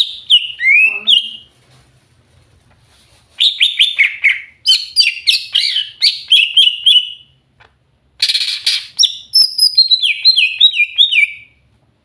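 Cucak hijau (green leafbird) singing in three bursts of rapid, varied chirps and whistled notes, with short pauses between them. The last burst ends in a quick falling series of notes.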